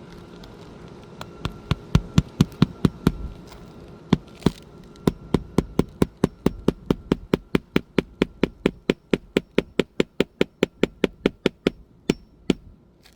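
Hammer driving roofing nails into an asphalt shingle: a quick run of about eight strikes about a second in, then a long steady run of about five strikes a second from about five seconds in until near the end.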